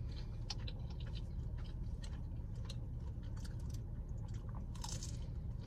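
Close-up eating sounds: a person chewing pizza with small wet mouth clicks and smacks, and a louder bite into the slice about five seconds in, over a steady low rumble.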